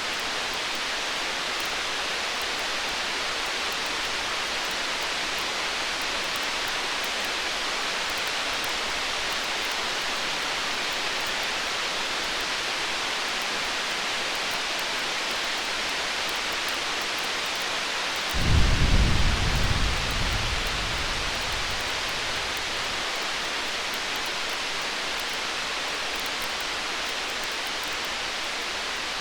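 A steady hiss of rain or fire noise, broken about two-thirds of the way in by a single roll of distant thunder: a sudden deep rumble that fades out over about four seconds.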